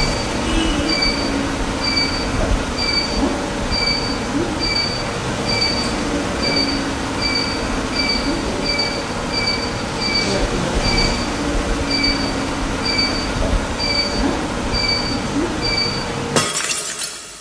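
Rumble of a train in motion with a steady electronic beep repeating about twice a second over it. Near the end a sudden crash-like burst of noise cuts in and the rumble falls away.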